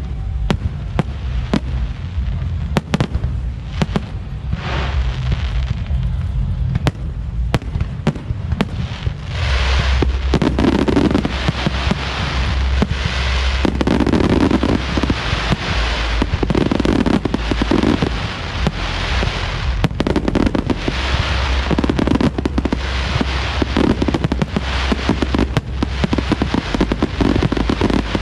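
Fireworks display: a run of sharp bangs that thickens about a third of the way in into near-continuous crackling mixed with bangs.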